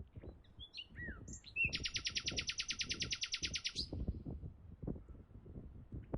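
Songbirds chirping. Starting about a second and a half in, one bird gives a fast, even, high trill of about ten notes a second for around two seconds. Faint, irregular low knocks sound underneath.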